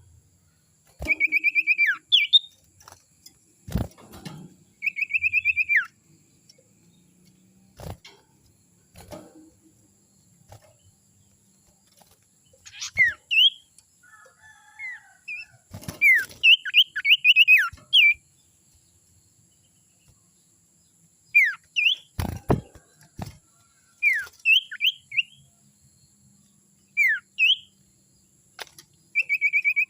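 Sirtu songbird singing in bouts of short, high trilled phrases and quick falling notes, with silent gaps between bouts. A few sharp knocks sound between the bouts.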